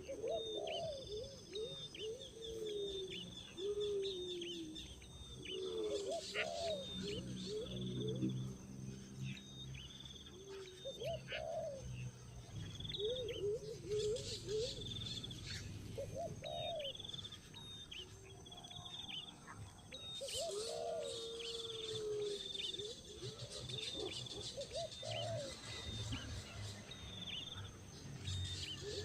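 Birds calling: low cooing calls repeated again and again, mixed with short high chirps.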